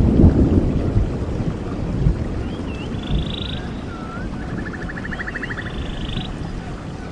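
Stream water rushing steadily, with birds singing over it from about two and a half seconds in: short slurred whistles alternating with rapid buzzy trills.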